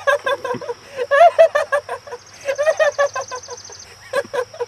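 A voice making a rapid run of short, pitched cries, about five or six a second, rising and falling in pitch, over a faint steady high tone.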